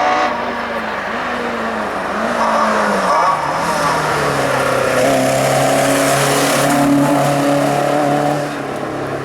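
Hill-climb race car accelerating hard, its engine pitch rising and dropping with three quick upshifts in the first two seconds, then pulling at a steadier, slowly rising pitch before easing near the end.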